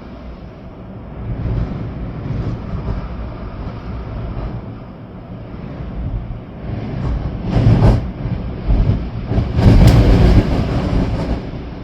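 Storm wind gusting hard through trees, with rain, and a low rumble. Two strong gusts swell up in the second half, the longer one near the end.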